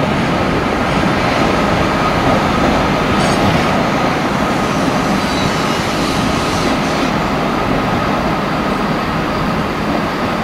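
Chiltern Railways hybrid battery/diesel train (Class 168 unit 168329 coupled to a Class 165) moving slowly past at close range, giving a steady running noise with a faint steady whine.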